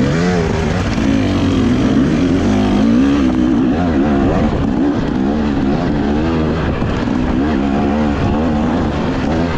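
Dirt bike engine revving up and down again and again as it is ridden.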